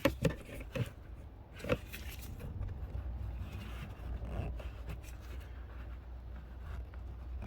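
Hands fumbling at a small plastic electrical connector in an engine bay, trying to unplug it. A few sharp plastic clicks and knocks come in the first two seconds, then faint rubbing and scraping over a steady low rumble.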